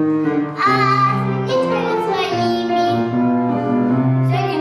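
A child singing a song with instrumental accompaniment, holding long notes.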